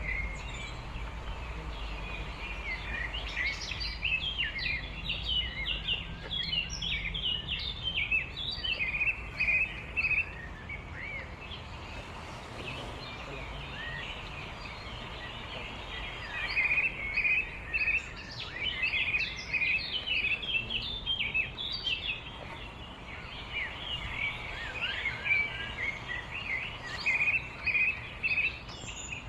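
Small songbirds chirping and twittering in quick, high-pitched bursts that come in clusters, over a low steady rumble.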